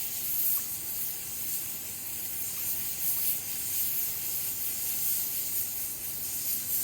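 Water splashing and running as a cooking pot and hands are washed: a steady spraying hiss.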